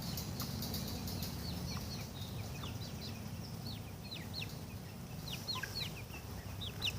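Chickens calling with many short, high peeps that fall in pitch, coming more thickly toward the end, over a steady low rumble.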